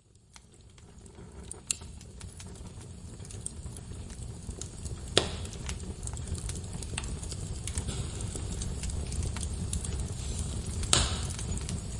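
Wood fire crackling in a fireplace: a steady low rumble of flames with frequent small crackles and a few louder pops, about two, five and eleven seconds in. The sound fades in from near silence over the first few seconds.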